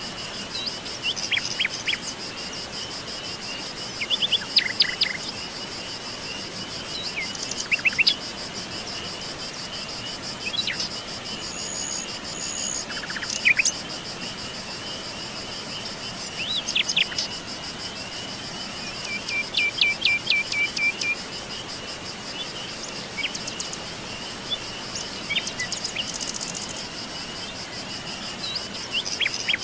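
Wild birds chirping and calling at intervals, with a quick run of repeated notes about two-thirds of the way in, over a steady high insect trill.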